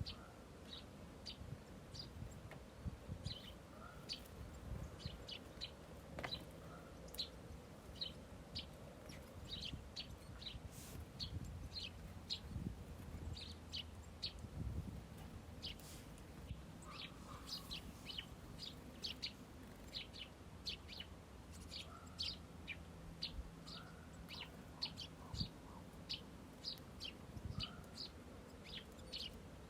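Small birds chirping: many short, high chirps, often several a second, over a low background rumble.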